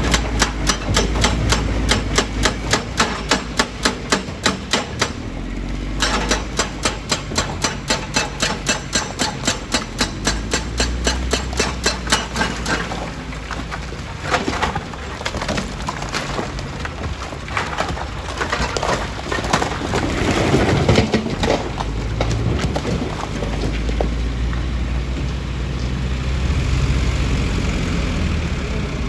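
Heavy diesel machinery working rock: rapid, evenly spaced hammering blows, about three or four a second, over a low engine rumble. The blows pause briefly about five seconds in, resume, then give way after about twelve seconds to irregular knocks and the engine running.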